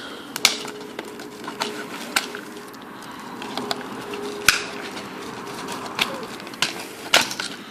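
Toy packaging being handled as the retaining sticks are pulled out of it: rustling, with irregular sharp clicks and snaps, the sharpest about half a second in and again about four and a half seconds in.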